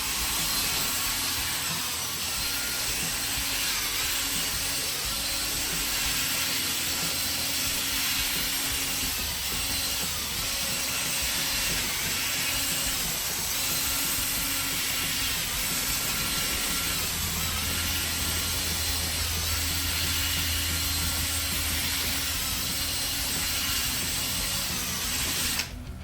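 Cordless drill spinning a sanding disc against a plastic headlight lens, running steadily with a faint whine that wavers in pitch, then cutting off abruptly just before the end.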